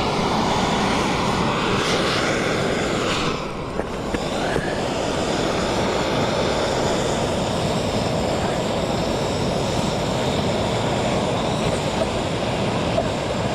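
Steady, loud rushing of wind on the microphone, with a short lull about three seconds in.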